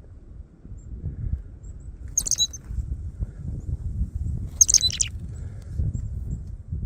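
A bird gives two short high chirps, about two and a half seconds apart, over a continuous low rumble.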